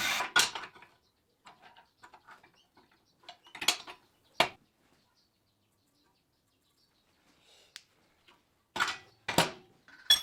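Pieces of steel clanking against each other or against a metal surface as they are handled: about six sharp knocks, several of them in pairs, spread a few seconds apart.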